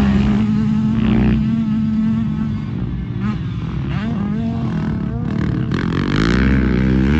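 Dirt bike engines running at high revs, with a steady note for the first couple of seconds, then revs falling and rising about four seconds in and climbing again near the end.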